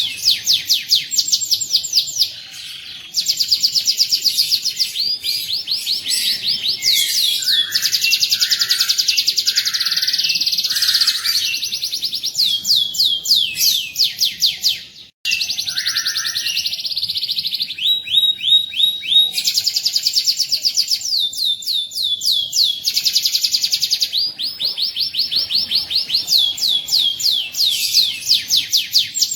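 Domestic canary singing a long, continuous song of fast rolling trills and rapidly repeated high notes, changing phrase every second or two, with a brief break about halfway through.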